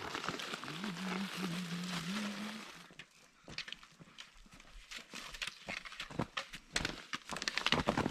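A faint low voice for the first few seconds, then irregular crunching footsteps that get denser toward the end.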